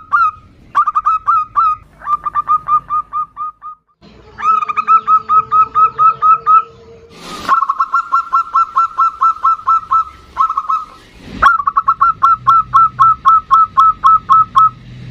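Zebra doves (perkutut) calling back and forth. Each phrase is a fast run of short, clipped cooing notes at about five a second, repeated phrase after phrase. Two sharp clicks break in near the middle.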